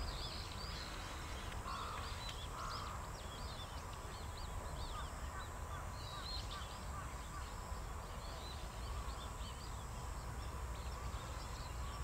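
Many short, high bird chirps scattered throughout, over a steady low rumble.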